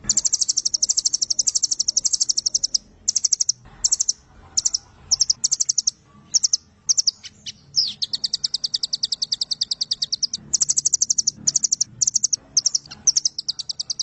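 Velvet-fronted nuthatch singing fast trills of sharp high notes in long runs, broken by brief pauses and short bursts: the long 'nembak' song.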